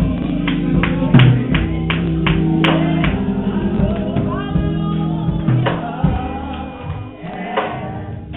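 Live gospel music: held keyboard chords under singing voices, with sharp beats in a steady rhythm through the first few seconds.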